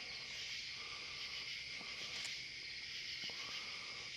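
Steady chorus of crickets and other insects, a continuous high-pitched trilling, with a couple of faint ticks.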